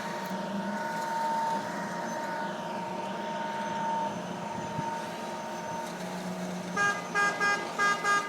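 A vehicle horn sounds five short beeps in quick succession near the end, over steady road and engine noise with a thin high steady tone in the first part.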